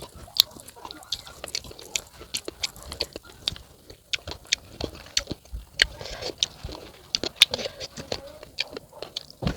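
A person chewing crisp unripe fruit with chili salt, a run of irregular wet crunches, several a second.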